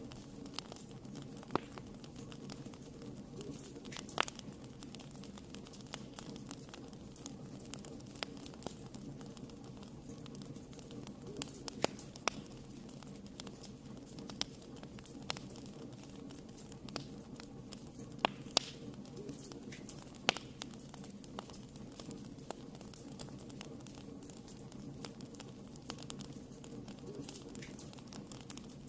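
Wood fire crackling in a fireplace: irregular sharp pops and snaps, a few louder than the rest, over a steady low rush of the burning fire.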